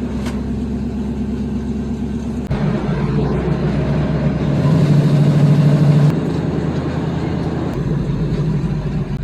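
Car engines running with a steady low drone. The pitch and level shift abruptly a few times, and it is loudest for a moment around five seconds in.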